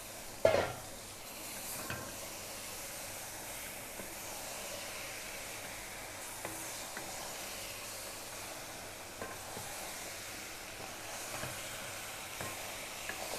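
Chicken pieces sizzling in an aluminium pressure cooker as they are stirred and sautéed with a spatula, with small scrapes and knocks against the pot now and then. About half a second in, one loud knock rings out, the loudest sound here.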